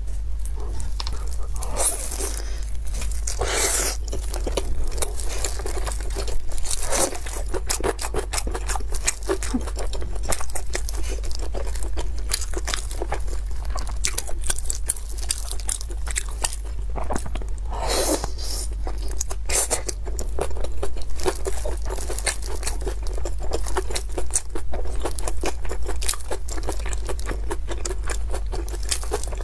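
Mouth sounds of eating kimchi and blood sausage: steady crunching and wet chewing made of many quick clicks, with a few louder crunches scattered through, over a faint steady low hum.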